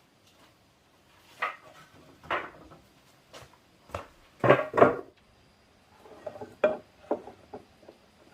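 Irregular knocks and clatter of hard objects being handled, the loudest two close together about halfway through.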